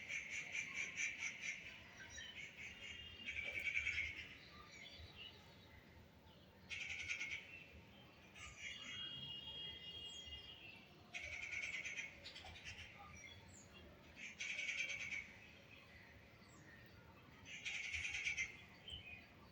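Baby parrot screaming in repeated calls of one to two seconds each, about seven of them with short pauses between.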